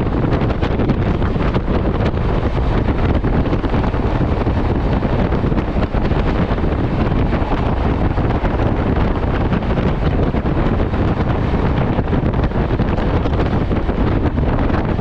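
Passenger express train running along the line: a steady rumble of wheels on the rails with wind rushing over the microphone.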